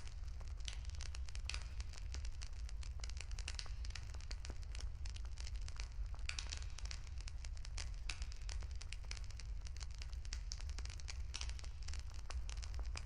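Wood fire crackling, with many irregular small pops and snaps over a steady low rumble.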